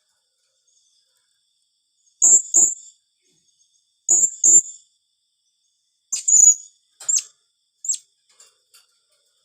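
Blue-crowned hanging parrot (serindit) giving sharp, very high-pitched calls: two quick pairs about two seconds apart, then a longer call and a few single shorter calls near the end.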